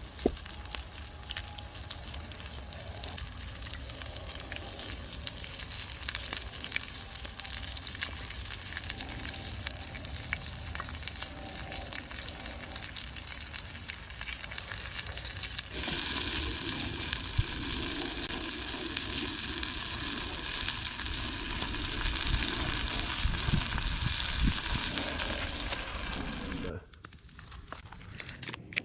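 Food sizzling and frying in a pan over a campfire, a steady hiss full of small crackles. It grows louder and fuller about halfway through, then breaks off suddenly near the end.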